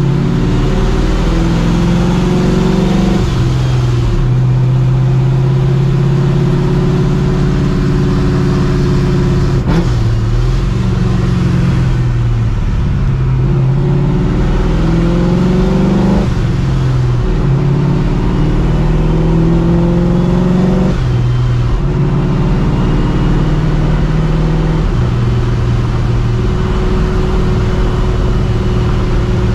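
Straight-piped, Procharger-supercharged 5.4-litre two-valve Ford modular V8 in a 1999 Mustang GT, running loud. Its pitch climbs and drops back several times, with steady stretches between, and a faint high whine rising with the revs.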